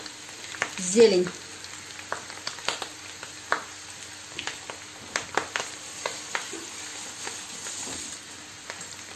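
Fried potatoes and chanterelles sizzling in butter and cream in a frying pan, with a steady hiss and irregular small pops and crackles.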